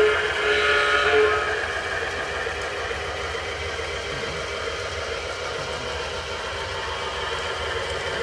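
Model F7 diesel locomotives running around a track loop, a steady motor hum with wheel and rail rumble. A diesel horn sound effect blows in short blasts in the first second or so.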